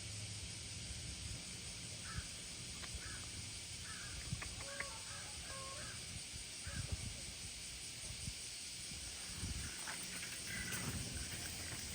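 A crow cawing, a string of short calls a few seconds in, over a steady outdoor hiss and a low rumble.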